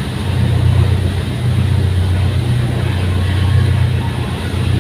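Steady low engine drone of a fast passenger ferry, with a rushing hiss of wind and water over it.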